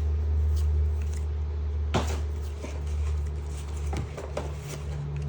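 Steady low hum under a few sharp clicks and light rustles of trading cards being flipped through by hand.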